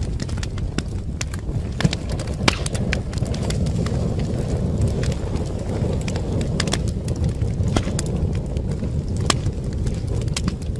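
Wood fire burning in a fireplace: a steady low rush of flame with frequent sharp, irregular crackles and pops of burning wood, a couple of louder pops about two seconds in.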